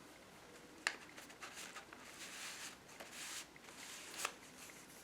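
Faint rustling of paper as a handmade junk journal's pages and tucked-in cards are handled, with a sharp tap about a second in and another near the end.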